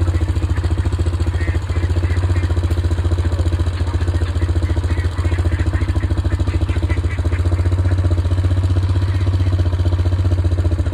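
A motor running steadily: a low hum with a fast, even pulse.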